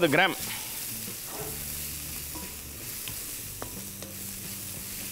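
Sliced onions and soaked moong dal frying in oil in a steel kadai, sizzling steadily while a wooden spatula stirs them, with a few light knocks of the spatula on the pan.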